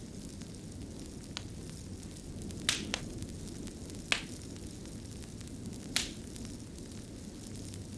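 Fire crackling: a steady low rumble with about five sharp pops, two of them close together near the middle.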